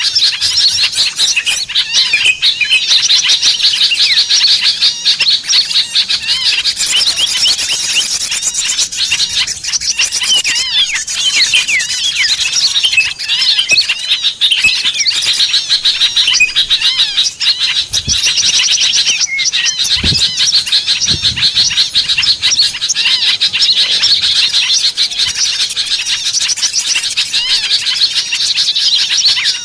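A dense, noisy chorus of many small songbirds chirping and twittering over one another without a break: a bird-lure recording made to draw wild small birds down.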